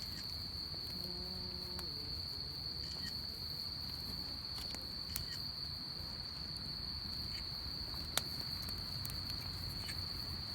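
Insects chirring in one steady, unbroken high trill, with a campfire's wood crackling in occasional sharp pops, the loudest about eight seconds in.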